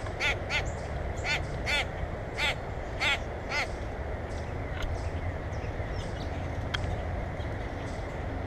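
A bird giving short, harsh caw-like calls, about seven in quick succession over the first few seconds, then falling silent, over a steady low rumble.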